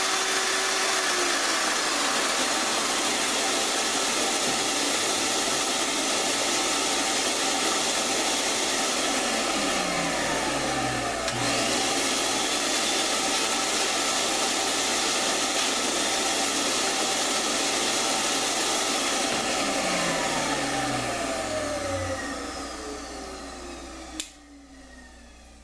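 Electric woodworking shop machine running with a steady loud whir, then switched off about twenty seconds in, its motor whine falling in pitch as it winds down; a click follows near the end.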